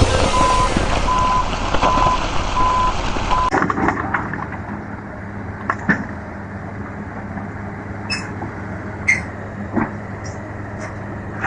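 Truck reversing alarm beeping at an even pace over loud engine noise. It cuts off about three and a half seconds in, leaving a quieter heavy engine running low, with a few clanks and short squeaks.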